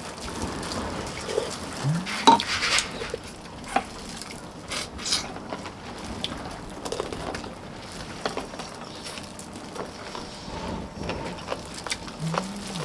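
Spoons and chopsticks clinking and scraping against bowls while eating soup: scattered light clicks and knocks, the sharpest about two seconds in.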